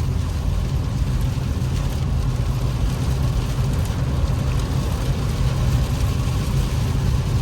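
Steady in-cabin noise of an Infiniti Q50s driving in heavy rain: a constant low rumble of tyres and engine with rain drumming on the car.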